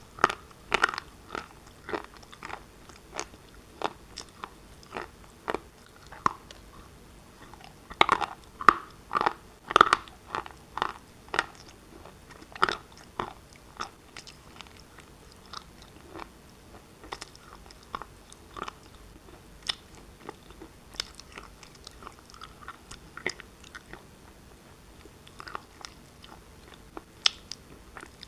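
Person biting and chewing pieces of black shale, close to the microphone: many sharp, brittle crunches at an uneven pace, thickest in the first half and thinning out later.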